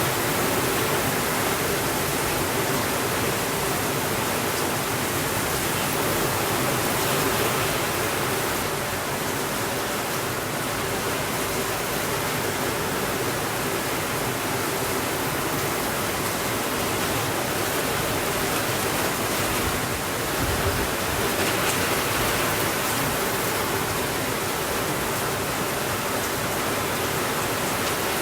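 Steady rainfall: a dense, even hiss without thunder.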